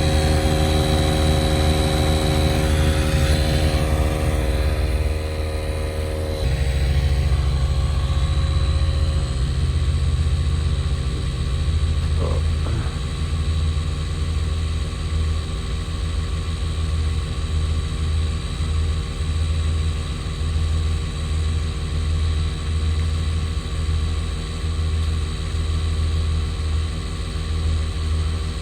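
A motor running steadily with an even drone, its note shifting slightly about six seconds in, and a brief click near the middle.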